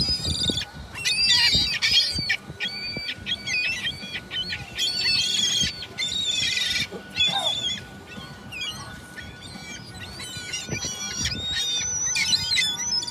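A flock of gulls calling, many short squawking calls overlapping one another, with a faint steady tone beneath.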